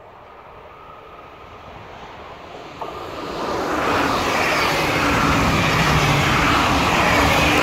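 Electric commuter train running through at speed: its noise swells during the first three or four seconds as it approaches. It then holds loud and steady as the carriages pass close by, with a low rumble of wheels on the rails.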